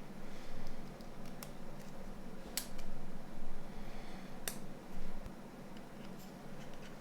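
Small sharp clicks and taps of a Nokia 9210's parts being handled and pressed into place during reassembly, a few scattered, the two loudest about two seconds apart, over a steady low hum.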